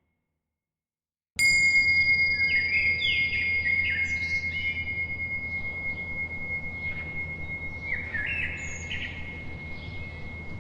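Silence for about the first second and a half, then a bell sounds once and its high, thin tone rings on steadily for most of the rest. Over it, birds chirp in two quick clusters, over a low steady background rumble.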